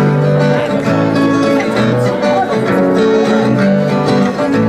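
Acoustic guitar music playing live, sustained plucked notes over a bass line whose notes change about every half second.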